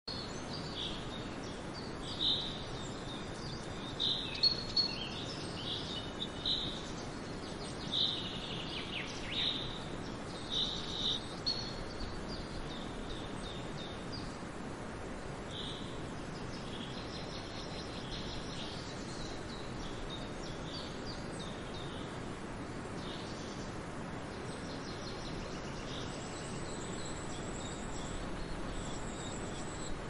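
Birds chirping in short calls over a steady background hiss. The calls come often in the first dozen seconds and thin out after. A thin, high, steady tone comes in near the end.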